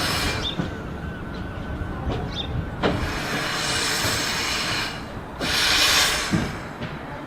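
Narrow-gauge 0-4-0 saddle-tank steam locomotive on the move: two long bursts of steam hiss, a few sharp clanks, and a faint wavering squeal in the first few seconds.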